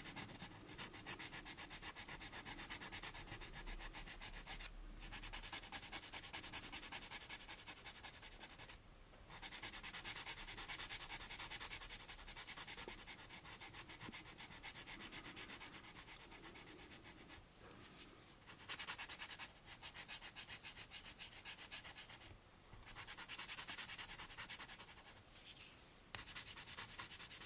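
Sandpaper rubbed back and forth in rapid short strokes on a plastic model-kit part, cross-sanding to level mold marks flat, with a few brief pauses between runs.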